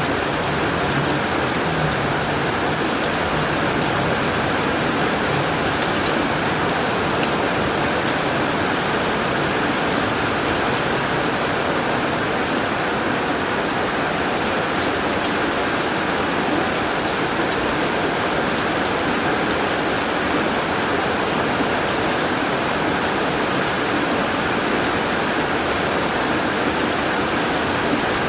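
Heavy rain falling steadily on a tin roof: a dense, even patter with many small drop ticks, unchanging throughout.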